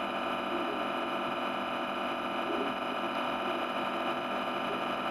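A steady, unchanging drone made of many held tones, with no rhythm or breaks.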